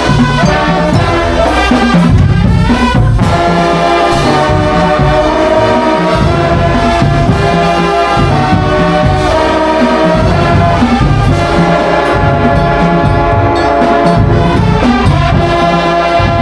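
Drum and bugle corps playing: a brass line of bugles holding and moving through chords, with marching drums beating underneath.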